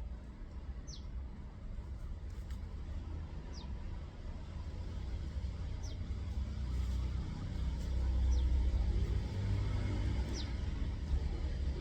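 A bird repeats a short, thin call that slides downward in pitch, about every two to three seconds, over a steady low rumble that swells around two-thirds of the way through.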